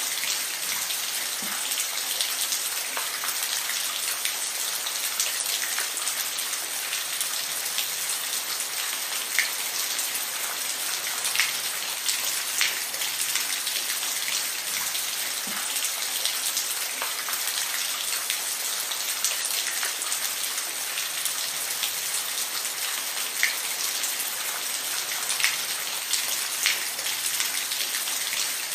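Steady rain falling, an even hiss with scattered louder drops ticking on a hard surface.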